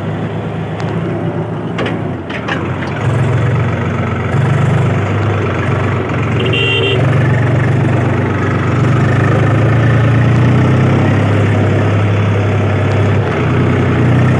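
Swaraj 735 tractor's diesel engine running steadily, getting louder about three to four seconds in. A few clicks sound about two seconds in, and there is a brief high tone near the middle.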